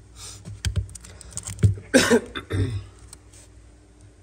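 A man coughs once, about two seconds in, amid scattered small clicks and knocks of objects being handled.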